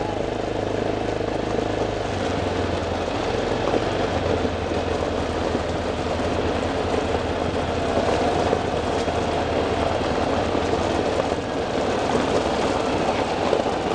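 A vehicle engine running steadily while driving, with a constant road and wind noise; the engine's low note shifts about two seconds in and again about four seconds in.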